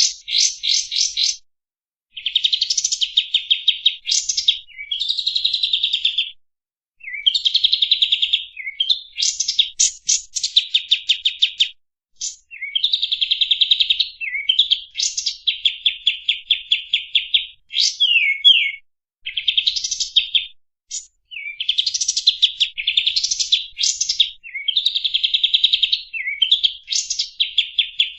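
Kapas tembak, a bulbul, singing a loud chattering song: phrases of very fast repeated notes, each one to five seconds long, broken by short pauses and a few quick falling notes.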